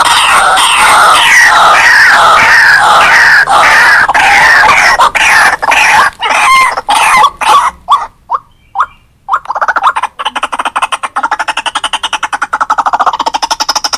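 White-breasted waterhen calling loudly: a run of quickly repeated falling notes, a brief break about eight seconds in, then a fast, even, rattling series of pulses.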